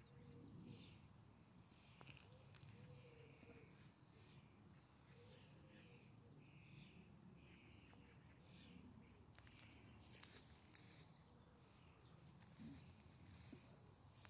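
Quiet outdoor ambience with faint, distant birds chirping in short repeated calls, and a few soft rustles from about ten seconds in.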